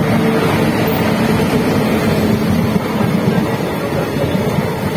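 Express passenger train's coaches passing close by at high speed: a steady, loud rush and rumble of wheels on the rails.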